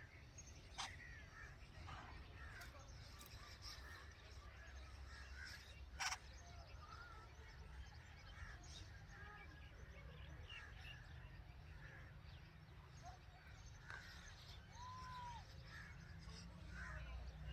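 Faint, scattered bird chirps and short calls over a low steady rumble, with a sharp click about six seconds in.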